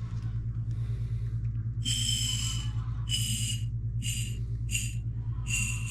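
Aerosol can of Sta-Bil fogging oil sprayed in five short bursts into the outboard's spark plug holes, each a hiss with a whistling tone, the last burst the longest. A steady low hum runs underneath.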